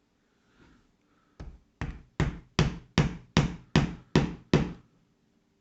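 Hammer tapping a short nail into a small wooden kit piece: about nine even strikes at roughly two and a half per second, starting about a second and a half in.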